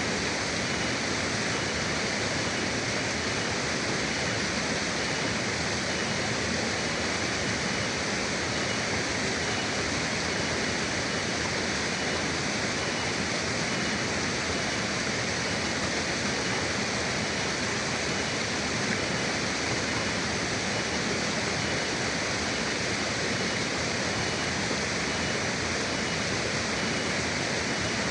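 Forest river water rushing steadily, an even hiss with no breaks or surges. A faint thin high tone sits under it.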